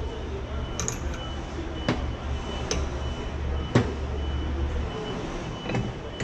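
A steady low machine hum that cuts off about five seconds in, with several sharp knocks of metal parts being handled.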